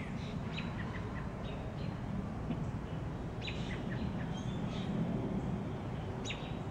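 Small birds chirping: scattered short high calls and quick falling notes, thickest about three and a half seconds in and again near the end, over a steady low background rumble.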